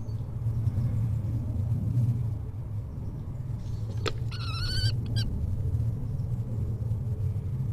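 Common kestrel giving one wavering, trilled call, about a second long, roughly halfway through, over a steady low rumble.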